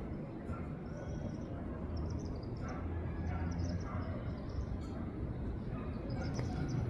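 Birds chirping in short, high calls, several times from about two seconds in, over a steady low rumble.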